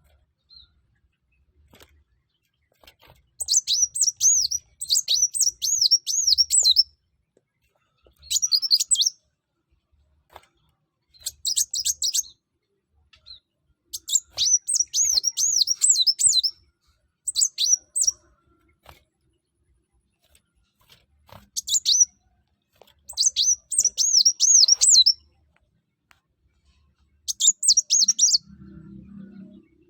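Kolibri wulung (sunbird) singing in an energetic run of rapid, high-pitched twittering phrases, each lasting one to three seconds, repeated about eight times with short pauses in between. A faint low hum comes in near the end.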